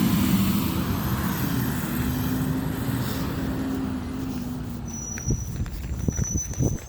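Garbage truck engine running, its steady drone slowly fading, with a few sharp knocks near the end.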